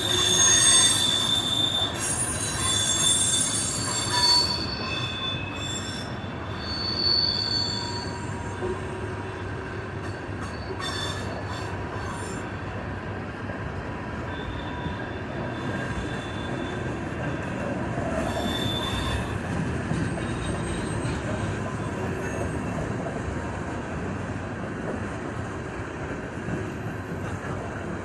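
Freight tank cars rolling past on the rails, their wheels squealing in several high steady tones that are strongest in the first eight seconds and then fade, leaving a steady rolling rumble with a brief knock near the end.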